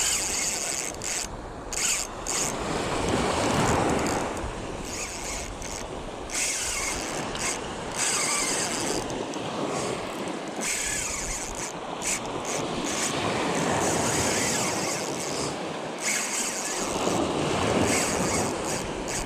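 Surf washing around a wading angler, with wind buffeting the microphone; the wash swells up about three seconds in and again near the end.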